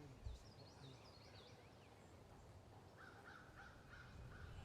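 Faint wild birds calling: a quick high warbling song in the first second and a run of about five short repeated calls in the second half. A soft low bump near the start.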